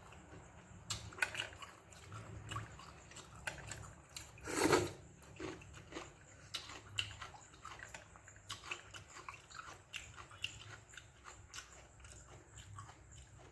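Close-miked chewing and eating sounds: a person chewing fermented rice with okra stir-fry, with many small wet mouth clicks and smacks and one louder burst about four and a half seconds in.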